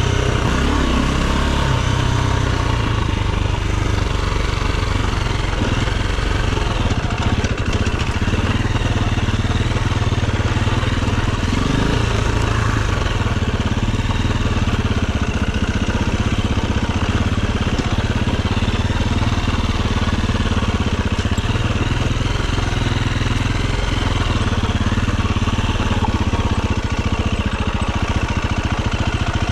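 Enduro dirt bike engine running steadily, with a brief change in revs about twelve seconds in.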